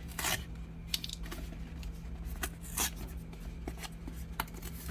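Rustling and crinkling of product packaging being handled, in a few short bursts with small clicks, the loudest about three seconds in, over a faint steady low hum.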